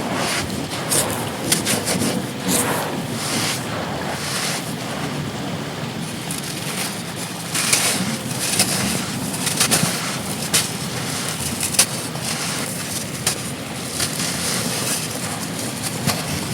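Steady rushing wind and rain with scattered sharp crunches and crackles of dry pure-sand chunks crumbling.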